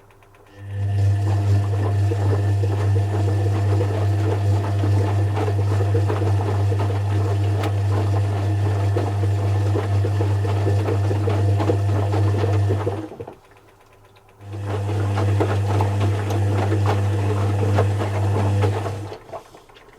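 Zanussi FC1000 compact washing machine running: a low motor hum with clatter over it, on for about twelve seconds, a pause of about a second, then on again for about five seconds. The stop-start spells are typical of the drum being turned during the wash.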